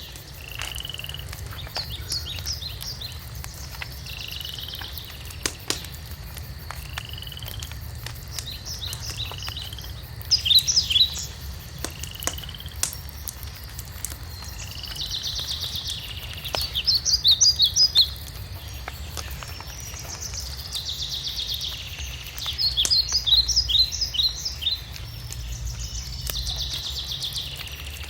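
Several songbirds singing back and forth: short rising whistles recur every couple of seconds, and quick bright trills and buzzy notes come in bursts, loudest about a third and two-thirds of the way through. Under the birds there is a steady low rumble with scattered sharp pops from a crackling wood fire.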